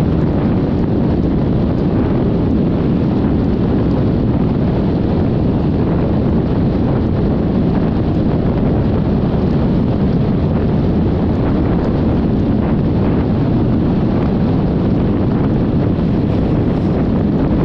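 Steady wind noise buffeting the microphone of a Yamaha XMAX 300 scooter under way, a loud, even rumble heaviest in the low end, with the scooter's running and road noise mixed in.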